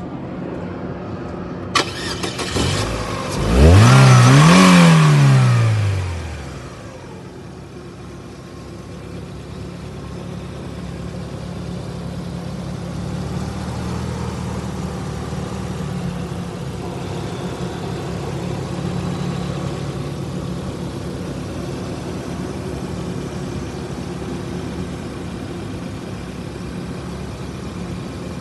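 2006 Chevrolet Aveo's 1.6-litre inline-four engine cranking and starting a few seconds in. It flares to high revs on catching, drops back within a couple of seconds, then settles into a steady idle that rises and falls slightly now and then.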